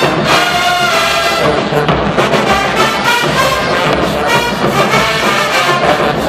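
HBCU marching band playing loudly: a full brass section of trombones and trumpets holding and moving through chords over a driving drum beat.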